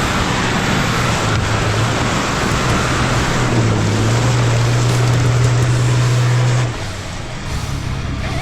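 Off-road racing truck's engine running hard under load, its note stepping up about three and a half seconds in and falling away near the end, over a steady rushing noise.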